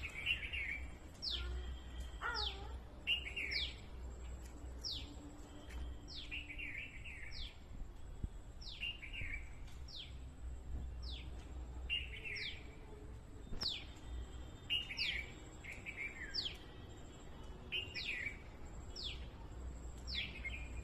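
A bird calling over and over, each call a quick falling whistle followed by a short twittering warble, repeating about every second and a half. A faint low hum runs underneath.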